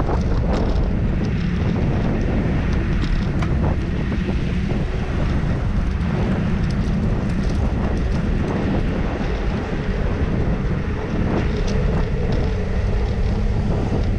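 Steady wind rumble buffeting the microphone of a camera on a moving bicycle, with the hum of road traffic running alongside.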